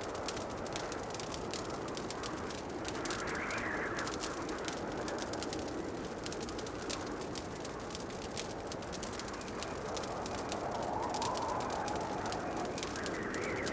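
Wood fire crackling in a fireplace, with many small pops over a steady rushing hiss that swells briefly a few seconds in and again near the end.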